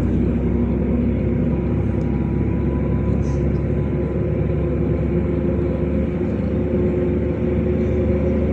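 LiAZ 5292 city bus under way, heard from inside the cabin: its engine runs steadily under the low rumble of the road, with no sudden changes.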